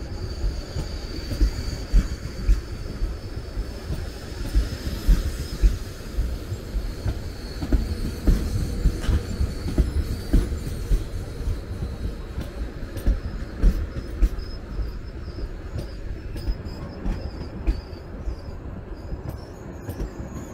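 MÁV-START Stadler FLIRT electric multiple unit pulling out past the platform: a steady low rail rumble with irregular thumps as the wheels run over rail joints and points. A thin high squeal from the wheels sounds through roughly the first six seconds, then fades.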